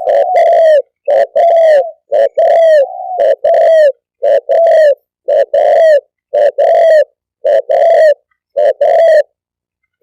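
Spotted dove cooing: a loud, close run of short hooting coos, each note swelling and then dipping at its end, given in quick pairs and threes with brief pauses between.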